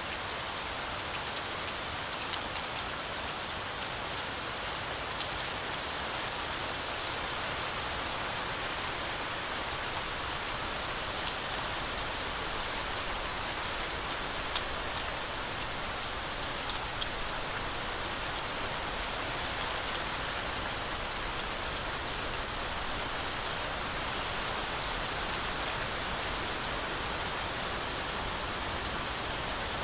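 Steady heavy rain falling through forest trees, a continuous even hiss with scattered sharper drop ticks.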